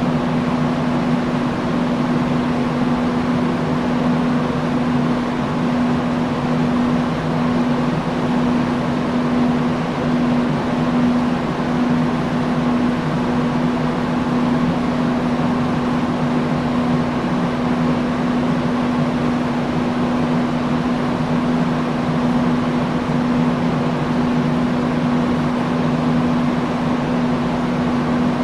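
Industrial fan running at a constant speed: a steady rush of air with a low motor hum.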